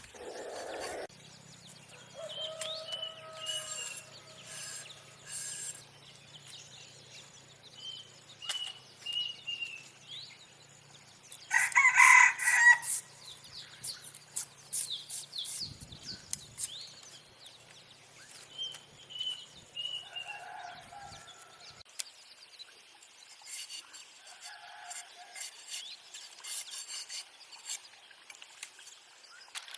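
A rooster crows once, loudly, about twelve seconds in, among hens clucking, small birds chirping and scattered light knocks.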